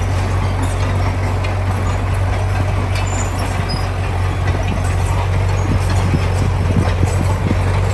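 Heavy diesel engine of earthmoving machinery running steadily, a strong low drone, with light scattered clicks over it.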